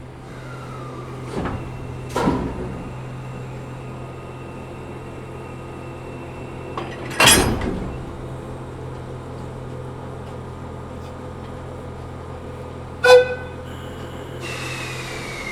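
Railway vehicles standing at a station: a steady low hum broken by sharp metallic clanks. The loudest is a noisy burst about halfway, and another ringing clank comes near the end. In the last second a falling squeal rises over a hiss.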